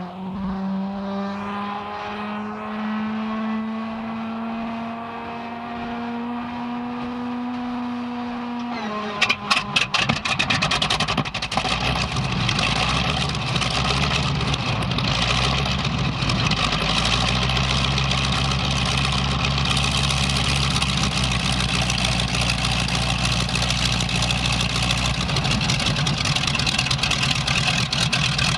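A North American AT-6 Texan's Pratt & Whitney R-1340 nine-cylinder radial engine being started. The starter whines for about nine seconds, rising slowly in pitch, then the engine fires with a few sharp pops and catches, settling into a steady idle.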